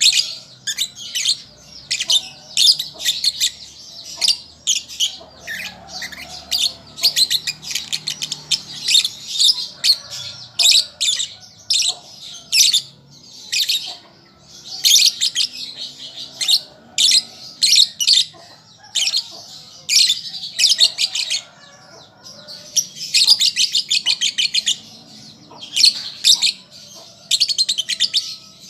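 A young lovebird chattering in rapid runs of high chirps, in bursts of a few seconds with short pauses between them: a juvenile still learning its song.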